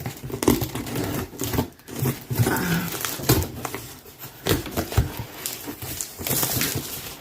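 A delivery box being opened by hand: cardboard and plastic packaging rustling and scraping, with scattered knocks.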